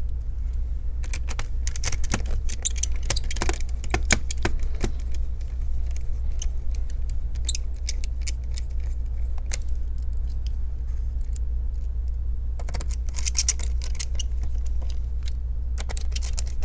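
Small metal screws and a screwdriver clicking and rattling as screws are handled and driven back into a laptop's case. The clicks come in a cluster over the first few seconds and again past the middle, over a steady low hum.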